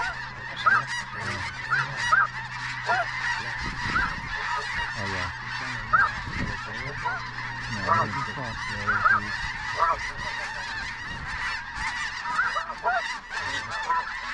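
A large flock of snow geese calling: a continuous, dense chorus of short, high honks overlapping one another.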